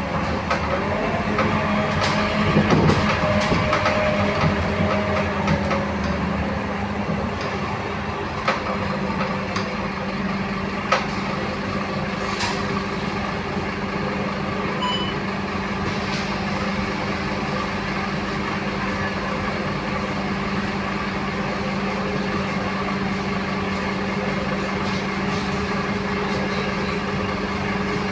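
Scania K230UB city bus heard from on board, its diesel engine droning steadily. A whine rises and holds for the first few seconds, and a few sharp clicks and knocks sound around the middle.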